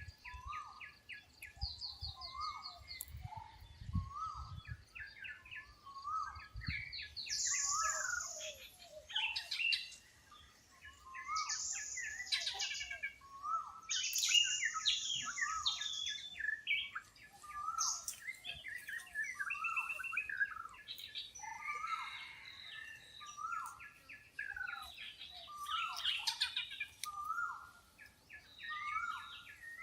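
Several birds calling together in a forest dawn-chorus mix. A short, hooked note repeats about once a second under chirps and fast high trills, with the loudest high-pitched chirping in the middle.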